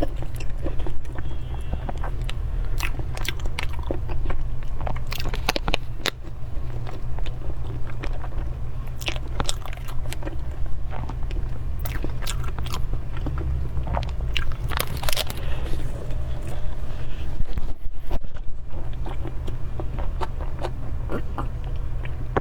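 Close-miked eating sounds: chewing and mouth noises with many short, irregular clicks, over a steady low hum.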